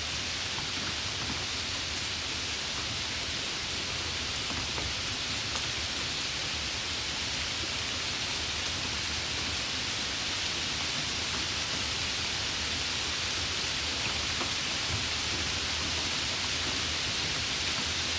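Steady rain falling in a continuous hiss, with faint scattered drop ticks.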